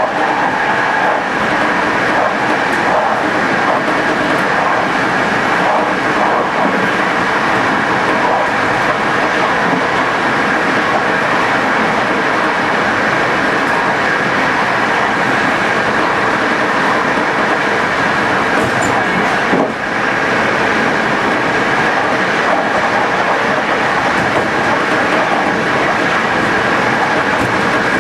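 TLK locomotive-hauled passenger train running steadily at speed: continuous rumble and wheel-on-rail noise, with a steady high-pitched whine over it and a brief dip in level about two-thirds of the way through.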